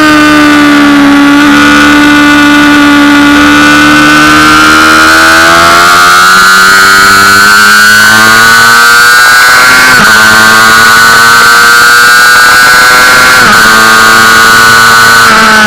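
Honda CBR600RR's inline-four engine running hard at high revs. Its pitch sags, then climbs steadily, with short sharp dips about ten and thirteen and a half seconds in.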